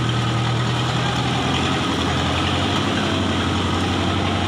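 Toyota Kijang's engine running steadily at low revs as the car crawls forward through thick mud, its low hum dropping slightly in pitch about a second and a half in.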